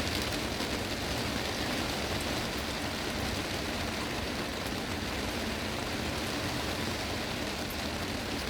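Heavy rain drumming steadily on a glass greenhouse roof, a dense even hiss with a faint patter of individual drops.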